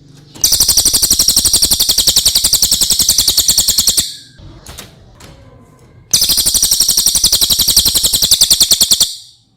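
Cililin song: two long, very fast high-pitched trills, the first about three and a half seconds long and the second about three seconds, after a pause of about two seconds.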